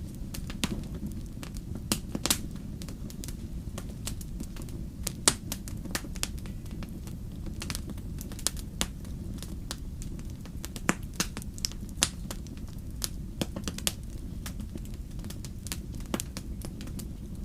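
Wood fire crackling and popping: irregular sharp snaps over a steady low rumble of burning.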